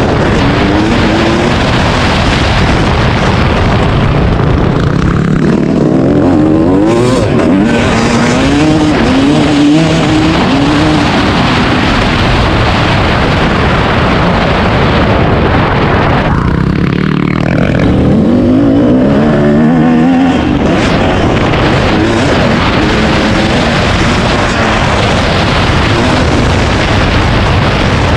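Dirt bike engine being ridden hard, its pitch surging up and falling back several times as the throttle is worked, over a loud, steady rushing noise.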